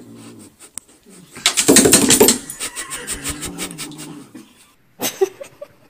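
An animal vocalizing: a rough, rapidly pulsing grumble about a second and a half in, then a wavering, whining moan for about two seconds.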